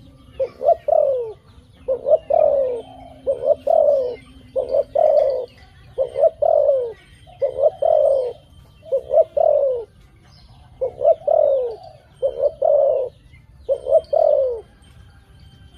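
A dove cooing over and over. It gives about a dozen phrases a little over a second apart, each a short coo running into a longer one that falls in pitch.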